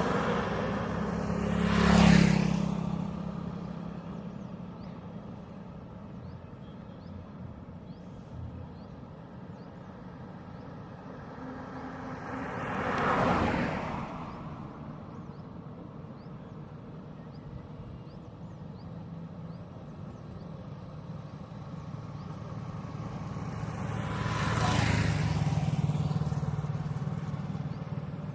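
Road vehicles passing one at a time on a highway: a sharp, loud pass about two seconds in, another about thirteen seconds in, and a slower-building, longer pass near the end, with a steady low engine hum between them.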